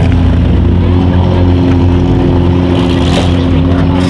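Demolition derby small-car engines running loud and steady at a held pitch, with a brief harsher burst of noise about three seconds in.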